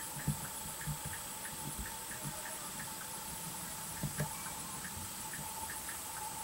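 Steady background chirring with regular short chirps a couple of times a second, typical of insects in summer, with a few faint low knocks. No shot is fired.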